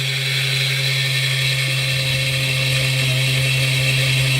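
A small diamond-tipped circular saw disc on a power tool, spinning at a steady whine while it cuts 3 mm brass rod.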